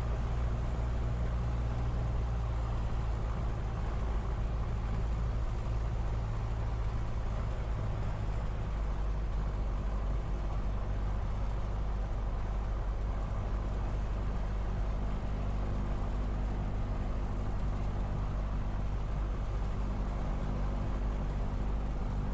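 Piper Cherokee's piston engine running steadily at low power on the ground before a short-field takeoff, a constant low hum.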